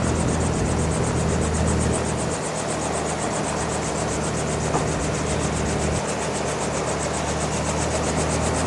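Helicopter running steadily, its rotor giving a rapid, even blade beat over the engine's hum.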